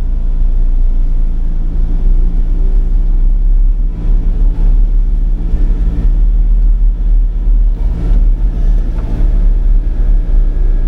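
Sany 35 mini excavator's diesel engine running steadily at working speed, a loud low drone with small load changes as the machine works.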